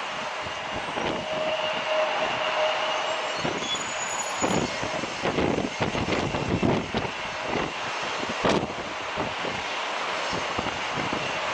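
Airbus A380 jet engine noise mixed with strong gusts of wind buffeting the microphone, the gusts thickest and loudest through the middle.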